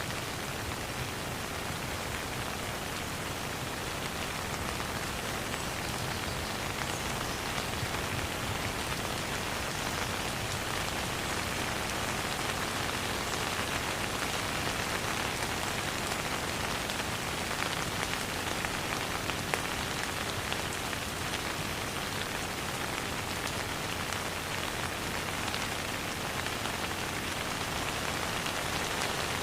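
Steady rain falling on a surface, an even patter of many fine drops with no thunder.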